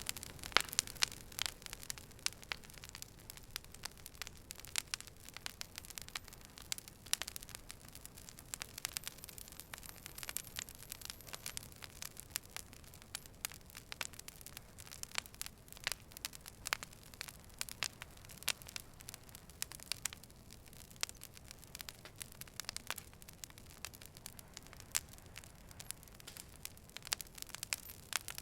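Fire burning with irregular sharp crackles and pops over a low steady hiss.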